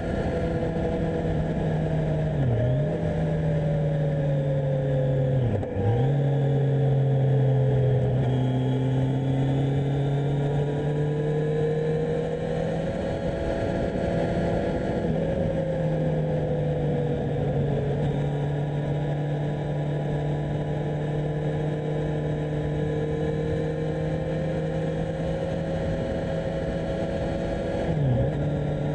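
Kawasaki Z1000SX's 1043 cc inline-four engine running under way at a steady road speed, its note drifting gently up and down with the throttle. The pitch dips sharply and recovers three times, most deeply about six seconds in.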